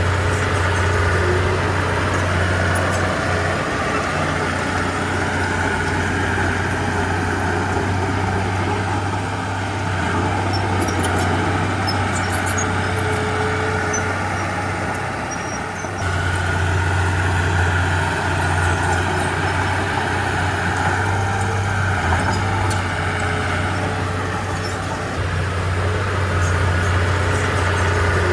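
Diesel engine of a Komatsu D31P bulldozer running steadily with a deep drone, with faint light clicking over it. The sound eases off a little just before halfway and comes back abruptly at the halfway point.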